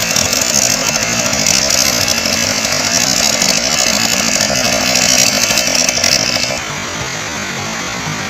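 Motorboat engine running with a loud, rough buzz over a rushing hiss. About six and a half seconds in, the hiss drops away and the sound gets a little quieter.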